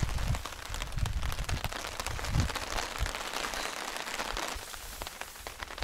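Steady hard rain pattering on a nylon tarp overhead, a dense hiss of many small drop ticks, with a couple of soft low thumps.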